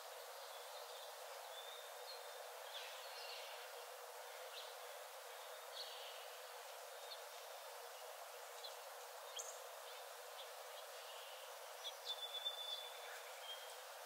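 Forest songbirds giving scattered short chirps and thin whistles over a steady, faint hiss of ambience, with a quick run of louder chirps near the end.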